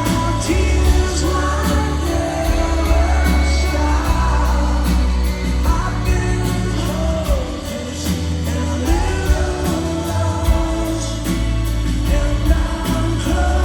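A live band playing a pop-rock song, with a singer carrying the melody over heavy bass and a steady drum beat.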